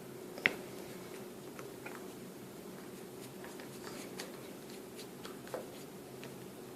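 Faint clicks and taps of small parts and a tool being handled during a phone's reassembly, with one sharper click about half a second in, over a steady low hum.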